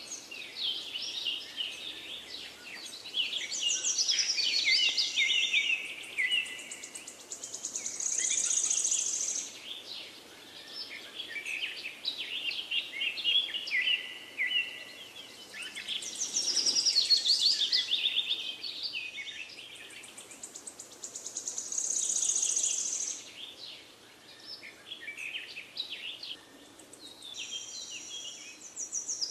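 Songbirds chirping and trilling in quick high phrases that swell and fade every few seconds.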